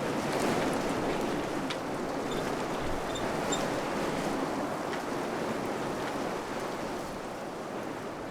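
Wind blowing steadily in gusty surges, easing slightly near the end.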